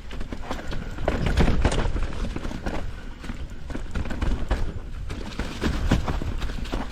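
Mountain bike riding fast down a rocky downhill trail, its tyres and frame knocking and rattling over rocks in many irregular knocks over a low rumble.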